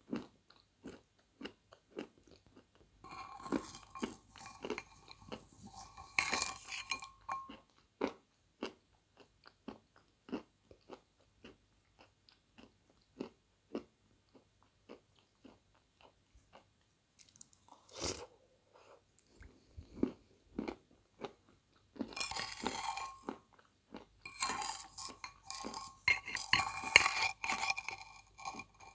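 Close-up mouth sounds of eating lumps of edible clay (песчанка) softened in water from a spoon: many small crunches and chewing clicks throughout, with two longer, denser stretches of crunching a few seconds in and again near the end.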